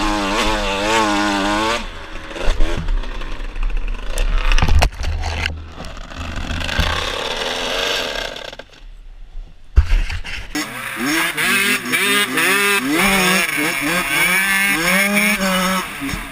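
Dirt bike engine revving, its pitch rising and falling, with two sharp knocks about five and ten seconds in. In the last few seconds the engine is blipped up and down over and over.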